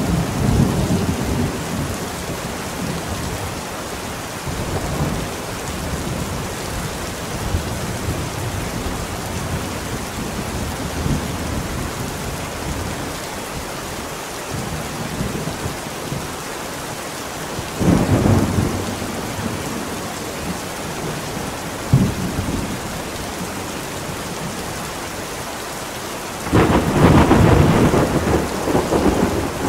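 Steady heavy rain with rolling thunder. Low rumbles come at the start, a louder rumble a little past halfway, then a short sharp crack, and the loudest, longest peal of thunder near the end.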